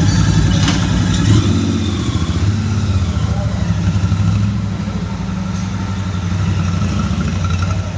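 Royal Enfield Super Meteor 650's parallel-twin engine running at low revs with a steady, even throb as the motorcycle is ridden slowly off.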